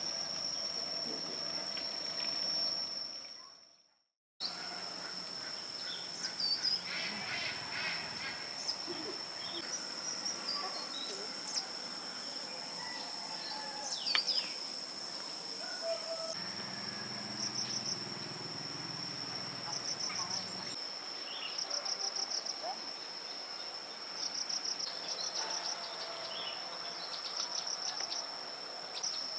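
Insects droning with a steady high-pitched tone, with pulsed trills and scattered short bird chirps over it. The sound fades out and cuts to silence about four seconds in, then picks up again.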